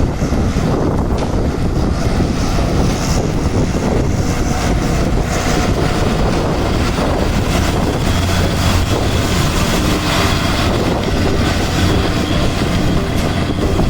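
A moving vehicle's engine and road noise, steady and loud, with wind buffeting the microphone.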